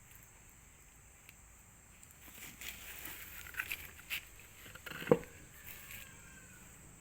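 Rustling and scraping with small clicks from about two seconds in, and one sharp knock about five seconds in, over a steady high insect drone.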